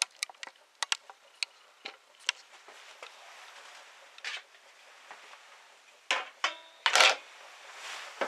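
Handling noise from tools and parts being worked on: scattered sharp clicks and light knocks, then a few scraping rubs and a brief squeak about six to seven seconds in.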